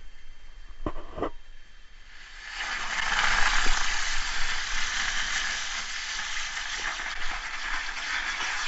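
A lit firework hissing steadily as it burns, starting about two and a half seconds in, after a couple of short clicks.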